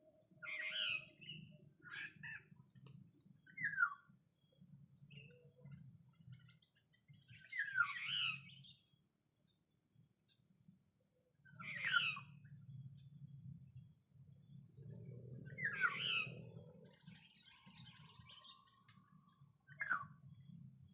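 Black-naped oriole (kapodang) calling: short, harsh calls that sweep downward in pitch, repeated every few seconds, over a faint low rumble.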